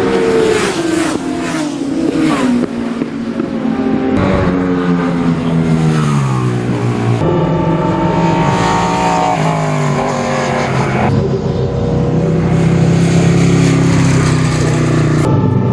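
Classic superbike racing motorcycles passing at speed one after another, several engines overlapping. Each engine note drops in pitch as the bike goes by.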